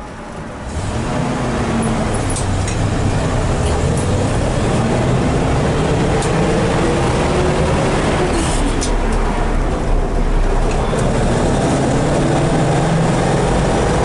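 1972 Ford Bronco's 302 V8 pulling away and accelerating, heard from inside the cab, its engine pitch climbing, dropping as the 3-speed manual is shifted, then climbing again. A few sharp clicks come in the middle.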